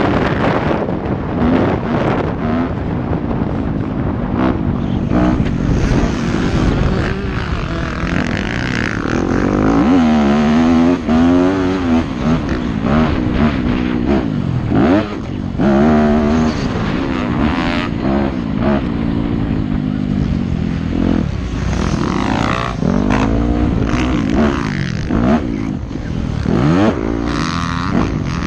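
Yamaha YZ250F single-cylinder four-stroke motocross bike engine revving hard, its pitch rising and falling over and over as it accelerates, shifts and backs off around the track.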